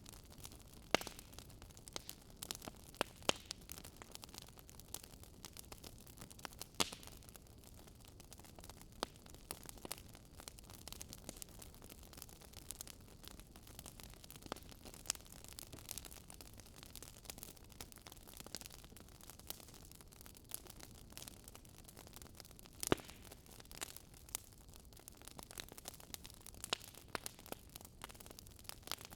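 Wood fire burning in a fireplace: soft hiss with irregular sharp crackles and pops, a few of them louder.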